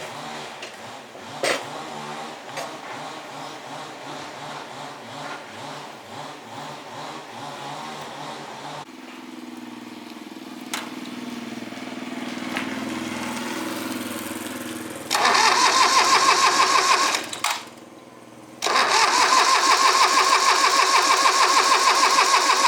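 A small engine, likely that of the restored farm machine, runs with an even pulsing beat. It then runs hard in two loud stretches of fast, rattling noise, about 15 s and 19 s in, with a short drop between them.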